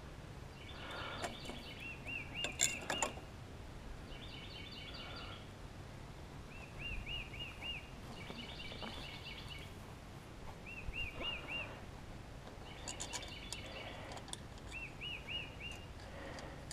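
A songbird singing repeated short phrases, each a quick run of three or four arched, whistled notes or a brief trill, coming back every second or two. A couple of sharp clicks stand out, one about three seconds in and one about thirteen seconds in.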